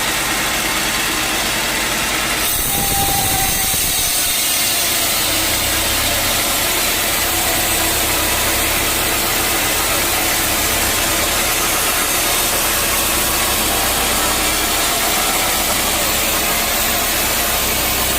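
Sawmill running and sawing through a teak log, a steady loud mix of engine hum and blade noise; the sound shifts about two and a half seconds in.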